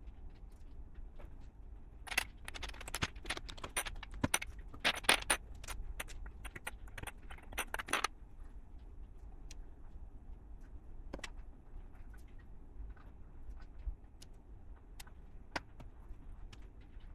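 Small plastic LEGO pieces clattering and rattling as they are rummaged through for about six seconds, then scattered single clicks of pieces being handled.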